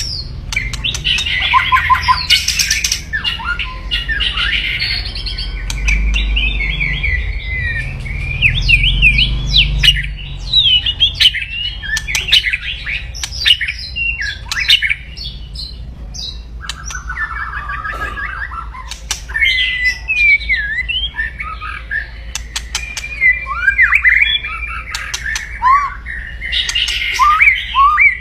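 White-rumped shama (murai batu) giving its loud, aggressive 'kretekan': a near-continuous run of quick, harsh chattering notes and short whistled sweeps, over a low background rumble that swells about a third of the way through.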